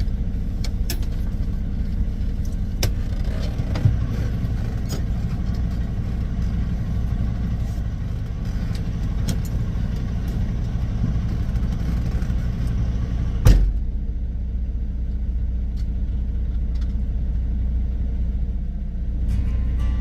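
Semi-truck diesel engine running steadily with a low rumble. There are scattered light clicks, and one loud thump about thirteen and a half seconds in.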